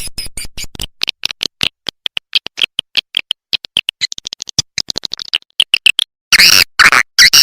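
Swiftlet calling sound: a fast run of short, high clicking chirps from swiftlets, several a second, with a few much louder buzzy twitters near the end. It is the kind of lure call played in a swiftlet house to draw the birds in to roost and nest.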